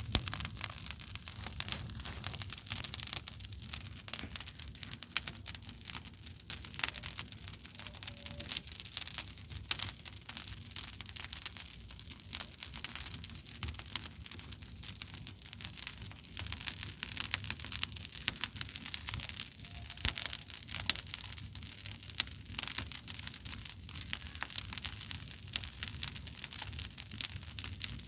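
Bonfire burning with a steady dense crackle of small sharp pops, over a low rumble.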